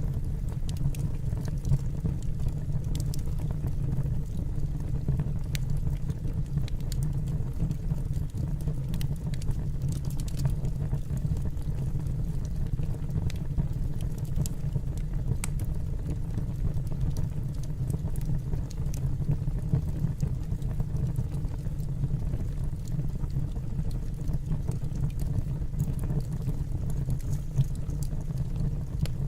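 Wood fire burning in a fireplace: a steady low rumble with scattered, irregular sharp crackles.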